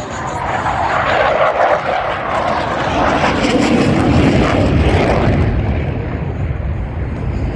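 Blue Angels F/A-18 Super Hornet jets passing low at high speed, a loud jet roar that falls in pitch about halfway through and settles into a low rumble.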